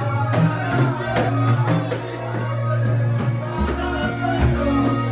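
Samri, Gulf folk music: men's group singing with regular drum beats about two to three a second over a steady low drone.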